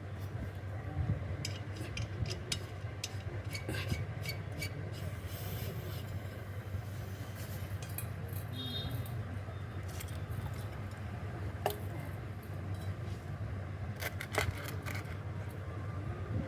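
LG MA45 refrigerator compressor running with a steady low hum while the system is charged with refrigerant, with scattered light metallic clicks and taps.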